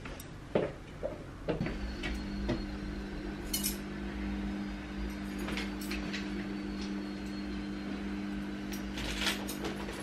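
Light clinks and knocks of everyday handling: clothes hangers moved on a metal clothes rack and small items gathered into a bag. A steady low hum runs underneath from about a second and a half in.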